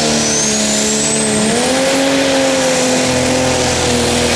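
Pro Stock pulling tractor's turbocharged diesel engine running hard on a pull. A turbo whistle rises in pitch over the first second, and the engine pitch steps up about one and a half seconds in.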